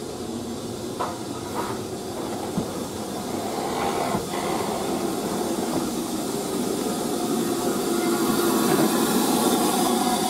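Steam train running on the line, a steady hiss of steam and running noise growing louder, with a few sharp clicks from the wheels and track.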